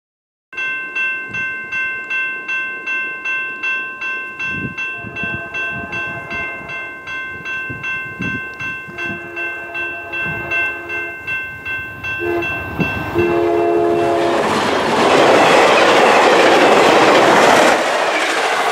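A VIA Rail P42DC diesel locomotive's horn sounds long, long, short, long, the standard grade-crossing signal, over a bell ringing about twice a second. The train then passes close by at speed in a loud rush of wheels and wind.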